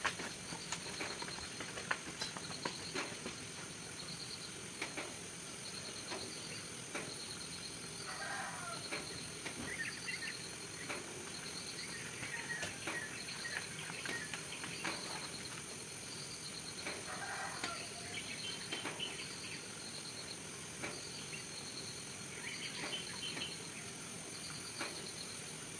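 Birds calling: a short high chirp repeats about once a second, with scattered lower calls over it.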